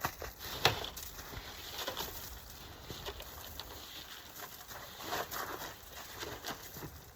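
Irregular light clicks, taps and knocks of hands and tools working, with the sharpest knock about a second in and a cluster of taps near the end; the engine is not running.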